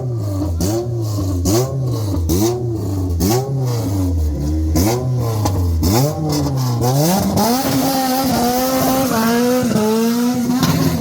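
Tuned car engine revved in quick throttle blips, about two a second. About seven seconds in, the revs climb and are held high, wavering in small steps, then drop back near the end.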